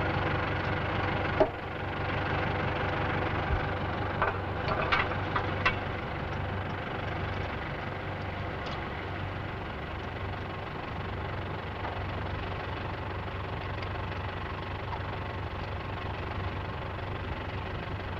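International Harvester 784 tractor's diesel engine idling steadily while a reversible plough is hitched to its lower links. A few sharp clanks sound about a second and a half in and again between about four and six seconds in.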